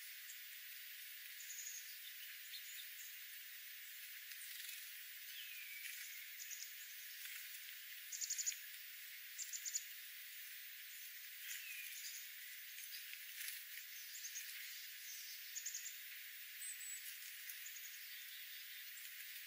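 Small birds calling: scattered short, high chirps and quick trills, with a couple of falling notes, over a steady hiss.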